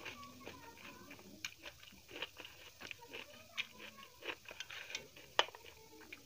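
Close-up eating sounds of someone chewing dal, rice and fried mutton: a string of small wet clicks and smacks, with one sharp click about five and a half seconds in.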